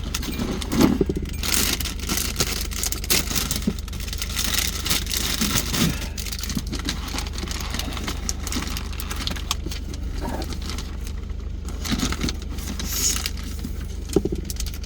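Steady low road and engine rumble inside a moving car's cabin, with irregular light rattles and clicks, like loose items jangling.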